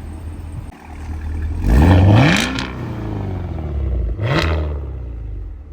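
Cadillac Escalade-V's supercharged 6.2-litre V8 idling with a low rumble, blipped twice: a loud rev about two seconds in and a shorter one about four seconds in.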